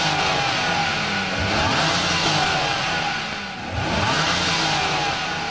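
Honda NSX V6 engine accelerating hard, its pitch climbing through the revs, with a brief drop about three and a half seconds in like an upshift before it pulls again.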